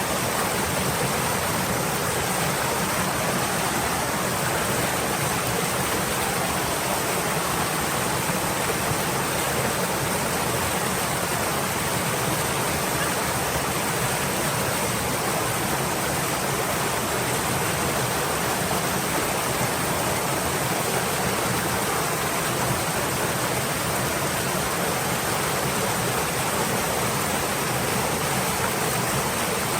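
Stream water flowing: a steady, unchanging rush.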